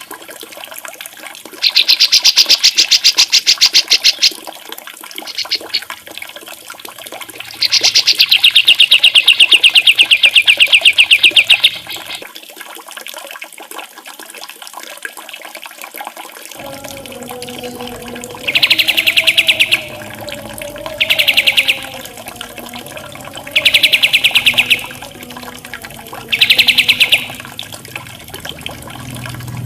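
Songbird master-song recording: high, very fast buzzy trills over the steady sound of running water. Two long trills come in the first half, then short trill phrases repeat about every two and a half seconds.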